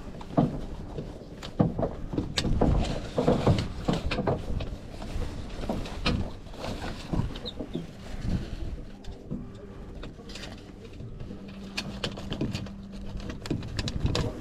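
Knocks, taps and rattles from a small sailing dinghy's fittings and rigging being handled while it is rigged, with a low steady tone held for a couple of seconds near the end.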